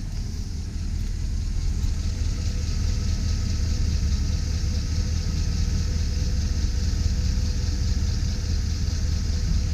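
Chevy Silverado 2500 HD pickup's engine idling steadily, a continuous low rumble.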